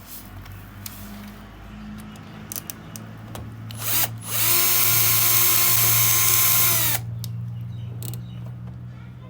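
A handheld power tool's electric motor, drill-like, is triggered about four seconds in. It whines up to speed, runs steadily for nearly three seconds, winds down, and then starts again at the very end. Light handling clicks and a knock come before it.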